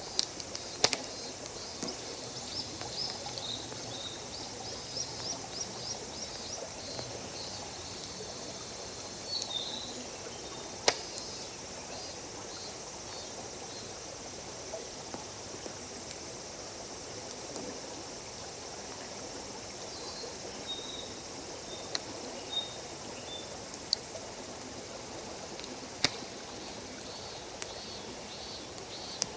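Wood fire crackling, with about ten sharp pops scattered through it, over a steady wash of flowing water. Runs of short, high chirps come and go in two stretches.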